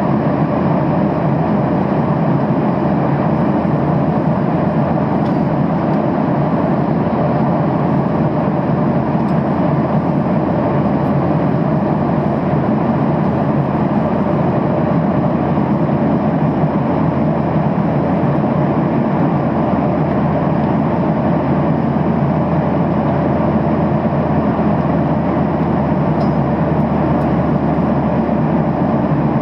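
Steady cabin noise of a Boeing 737-800 in flight: a loud, even rush of airflow and CFM56-7B engine drone, unchanging throughout.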